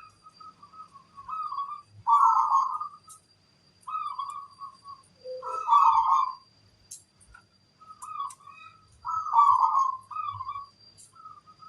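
Zebra dove (perkutut) cooing: repeated phrases of quick, rolling notes, each phrase a second or so long, about six phrases in a row with short gaps between.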